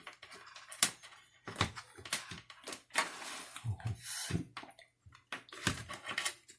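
Irregular clicks, taps and light knocks, with short scraping rubs in between: a plastic clock spring and multimeter test leads being handled and set up for testing the connector pins.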